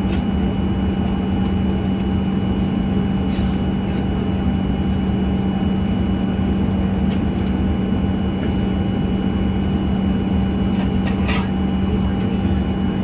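Steady drone heard inside the cabin of a Boeing 737-900 on the ground: a strong low hum with faint steady high tones above it, and a brief rattle about eleven seconds in.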